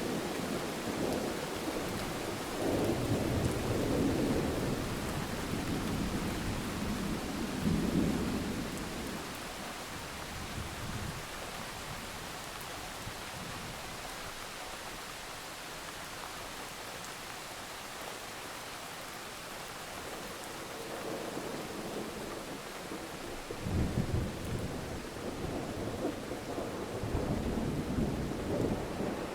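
Steady rain with rolling thunder. The thunder rumbles through the first few seconds, dies away, and rolls in again about two-thirds in.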